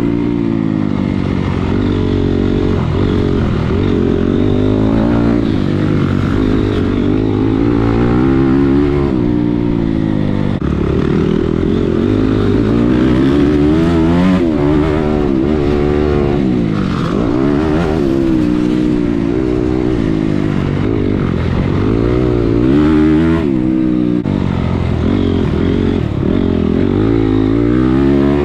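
Dirt bike engine being ridden hard, revving up and dropping back again and again as the rider goes on and off the throttle and through the gears.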